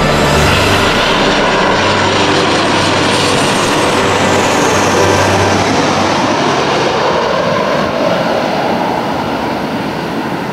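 Jet engines of a JAL Boeing 737-800 on final approach passing low overhead: a loud, steady roar with a whine that falls in pitch as the aircraft goes by, fading over the last few seconds as it moves away toward the runway.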